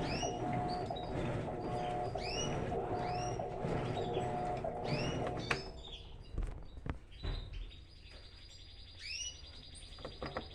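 Small bird chirping repeatedly in short arched calls over the steady hum of an Electrolux LTE12 washing machine in its final rinse. The machine's hum stops about halfway through, leaving the chirps over a quieter background.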